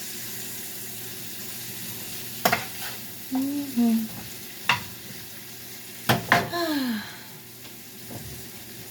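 Food frying in hot oil in a pan, a steady sizzle, with a few sharp knocks of a utensil against the pan, loudest about six seconds in, and a couple of short falling tones.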